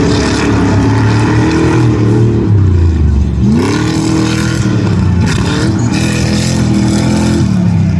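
Off-road racing engines running hard and revving, the pitch falling and rising again and again as the vehicles lift off and accelerate; the engine note drops low about three seconds in, then climbs steeply.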